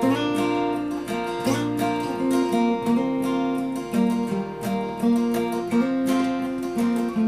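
Acoustic guitar strummed through an instrumental break, chords ringing with a strum about every second.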